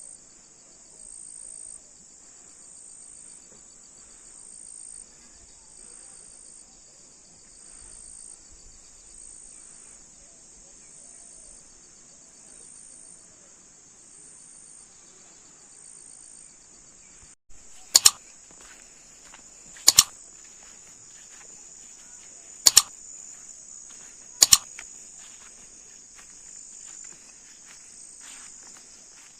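Steady, high-pitched chorus of insects such as crickets or cicadas, with a regular pulse. In the second half come four sharp knocks, each a quick double crack, about two seconds apart.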